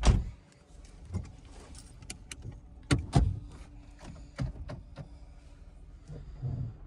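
A heavy thump, then a handful of separate sharp knocks and clacks spread over several seconds, two close together about three seconds in, and a duller thud near the end.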